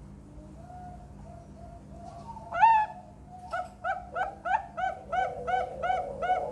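Zebra dove (perkutut) cooing: a few soft notes, then a loud rising note about two and a half seconds in, followed by a quick, even run of repeated coos at roughly three a second.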